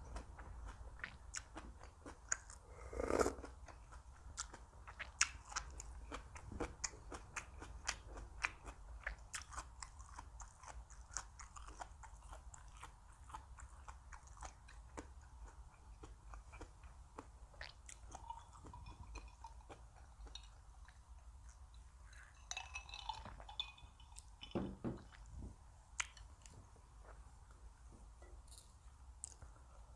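Close-up chewing and crunching of crisp raw vegetables in a lettuce-style wrap, with many small crackles and one louder crunch about three seconds in.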